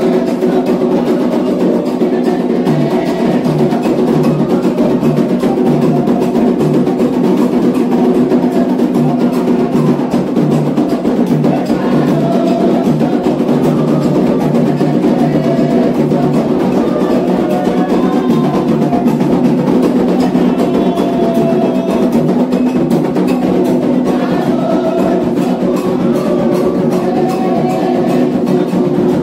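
Candomblé ceremonial drumming for Xangô on atabaque hand drums, a fast, steady rhythm with sharp bell- or block-like strikes, and voices singing a chant over it.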